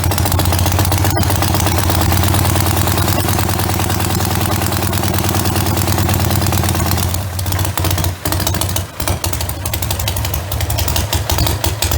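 Douglas T35 350 flat-twin stationary engine running with a cut-down propeller on its shaft: a steady low beat under a wide hiss. About seven seconds in, the sound turns rougher and more uneven.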